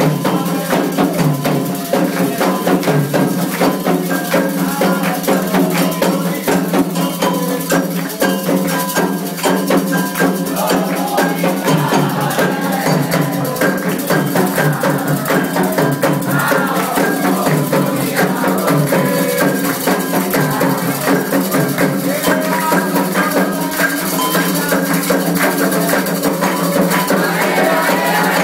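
Candomblé ceremonial music: fast, dense hand percussion with shaker rattles, and voices singing over it.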